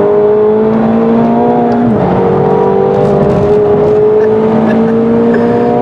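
McLaren 720S's twin-turbo V8 pulling hard under full throttle, its pitch climbing steadily. About two seconds in it drops abruptly with an upshift, then climbs again.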